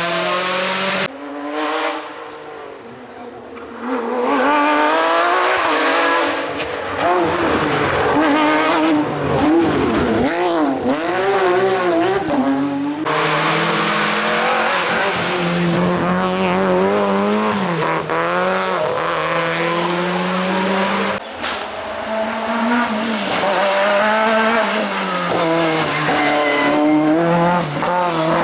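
Rally car engines at full throttle, pitch climbing and dropping with each gear change and lift-off as the cars pass. The sound changes abruptly a few times as one car gives way to the next.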